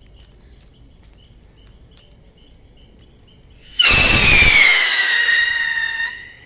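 A firework rocket launching: a sudden rush of noise about four seconds in, then a loud whistle that slides slowly down in pitch for about two seconds and fades as the rocket climbs away.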